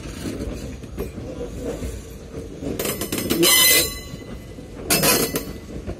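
Indian Railways passenger coaches rolling slowly past on the track, their wheels rumbling over the rails. Two louder bursts of clatter stand out: one about three seconds in lasting about a second, and a shorter one about five seconds in.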